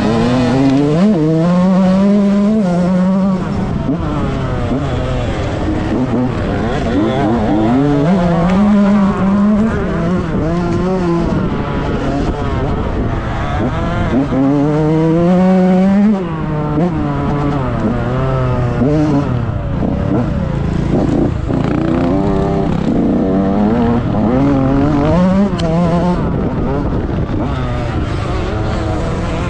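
2006 KTM SX 65 single-cylinder two-stroke motocross engine, revving hard and easing off again and again as the bike accelerates and backs off around the track. Its pitch climbs steeply in several long surges, about every six to eight seconds, with shorter rises and dips in between.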